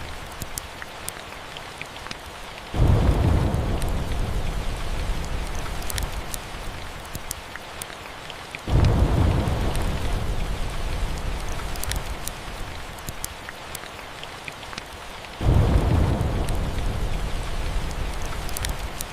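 Steady rain with three rolls of thunder, each starting suddenly (about 3, 9 and 15 seconds in) and rumbling away over several seconds. Scattered sharp crackles of a wood fire sound over the rain.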